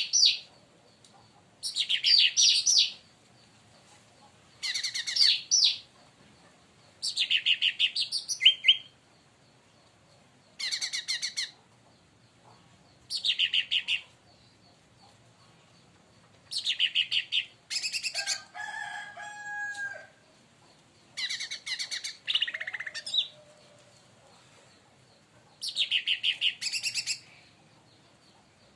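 Cucak ranting (cica daun, a leafbird) singing loud, short bursts of rapid, high chirping notes, each about a second long, repeated every two to three seconds. About two-thirds of the way through there is one lower phrase of steady whistled notes.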